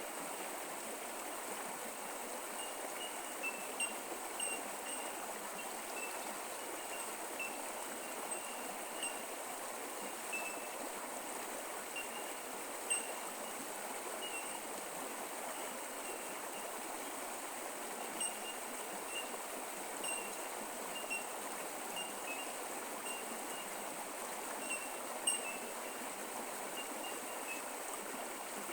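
Creek water flowing steadily over rocks, with short high-pitched plinks scattered through it.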